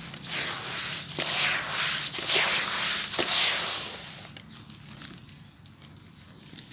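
Grainy crumbling of a black sand-cement bowl breaking apart in water, a gritty hiss with a couple of sharp cracks. It eases off after about four seconds.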